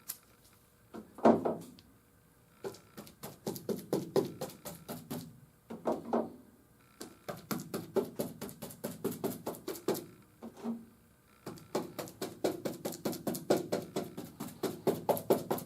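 A brush dabbing resin onto fiberglass cloth: quick, light taps about five a second, in runs broken by short pauses, with a couple of louder knocks.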